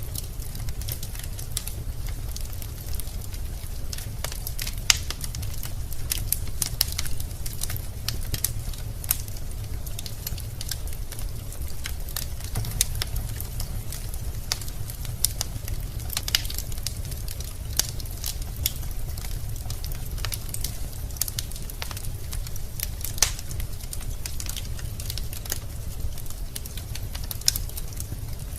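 Wood fire burning in a fireplace: logs crackling and popping with many irregular sharp snaps over a steady low rumble of the flames.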